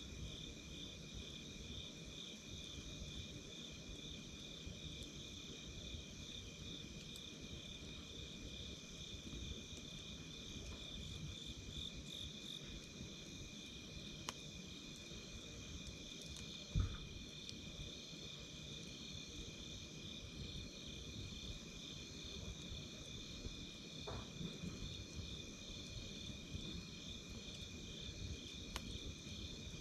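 Night insects such as crickets calling steadily in two high pitches, one a fast pulsing chirp and the other an even trill, over a low rumble. A few sharp crackles from a wood campfire, and one louder low thump about seventeen seconds in.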